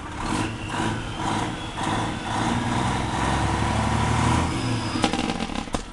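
Freightliner Columbia truck's diesel engine running hard under load as it tries to pull out of snow, swelling in the middle, with two sharp knocks near the end.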